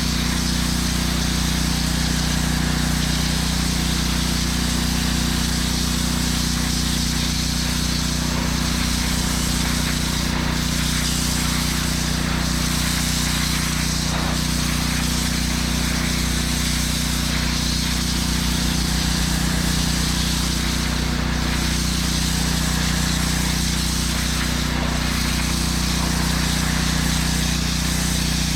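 Engine-driven pressure washer running steadily, with the hiss of its water jet spraying concrete slurry off a sidewalk.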